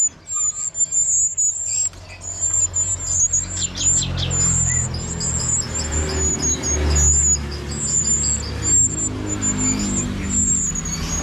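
Caged songbirds twittering in a continuous thin, very high chirping. A low vehicle rumble passes underneath, loudest about six to seven seconds in.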